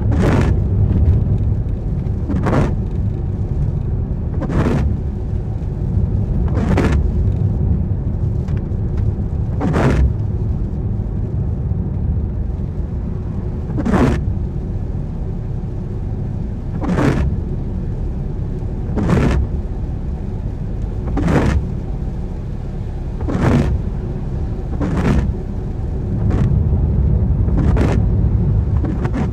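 Steady low road and engine rumble inside a car driving in the rain, with a windscreen wiper swishing across the wet glass about every two seconds.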